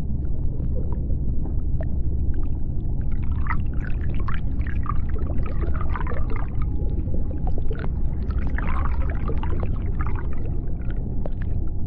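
Underwater ambience: a steady low rumble with scattered sharp clicks, and a run of squeaky, wavering calls from about three to ten seconds in.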